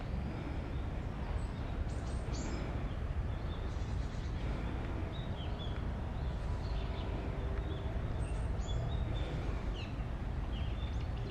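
Birds chirping in the trees, many short calls scattered through, over a steady low rumble of handheld walking ambience. A few brief sharp clicks come about two seconds in.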